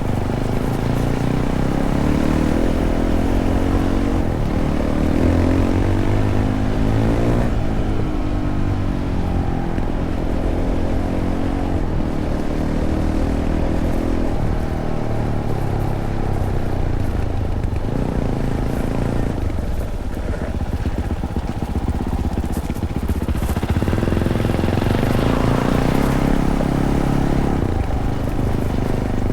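Fantic Caballero 500's single-cylinder engine through its stock Arrow exhaust, ridden on and off the throttle. The revs climb and drop repeatedly, with a shift about a third of the way in and another climb near the end.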